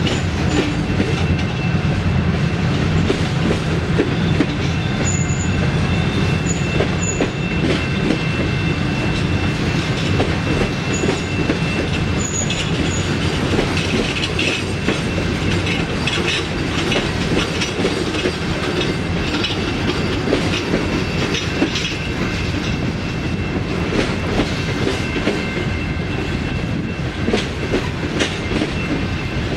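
Freight train rolling past steadily, its wheels clicking over rail joints above a continuous low rumble, with a faint steady high-pitched ring from the wheels.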